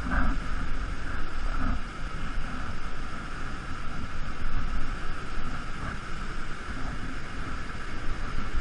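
Waterfall and fast stream water rushing steadily close to the microphone, with a low rumble underneath.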